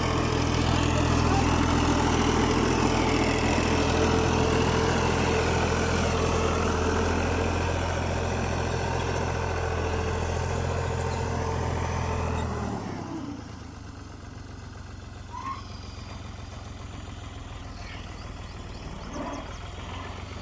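Fiat 480 tractor's diesel engine running steadily, pulling a tined cultivator. About thirteen seconds in the engine sound falls away sharply, leaving a fainter steady hum.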